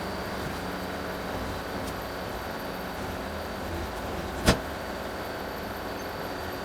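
An engine running steadily, with one sharp click about halfway through.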